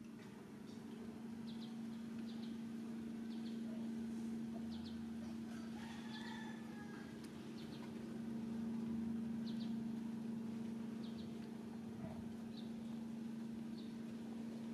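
Outdoor ambience: short, high bird chirps repeating every second or so over a steady low hum, with a couple of lower calls about six seconds in.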